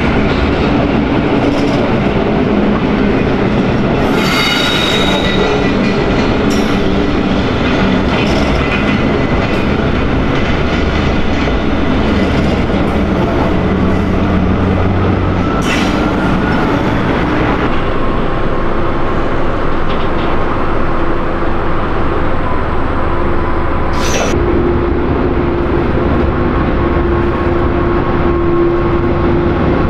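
Freight train of loaded flat wagons rolling past, with wheels squealing at intervals and clicking over rail joints. In the second half an SBB Cargo Am 843 diesel locomotive comes closer, its engine running steadily under the wheel noise.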